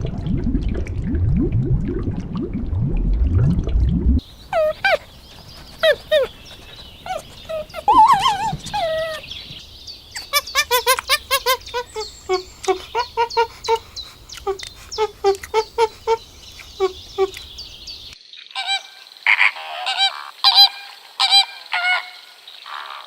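A sequence of animal calls. First comes a low rumbling roar for about four seconds. Then comes a long run of short, repeated, pitched calls, quickening into rapid strings of notes. About eighteen seconds in, it cuts to a different set of higher calls.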